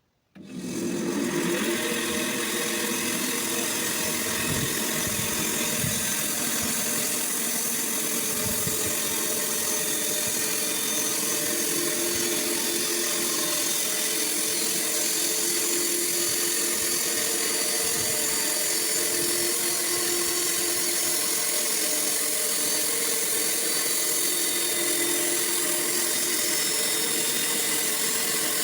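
Sawmill running and sawing wood: a loud, steady mechanical whine and hiss with a constant hum underneath, starting abruptly about half a second in.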